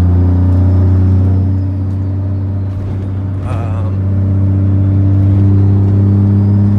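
2007 Ram 2500's 5.9 Cummins turbodiesel, heard from inside the cab, running with a steady deep drone while driving. It eases off about two seconds in and builds back up about four seconds in. A brief wavering sound comes about three and a half seconds in.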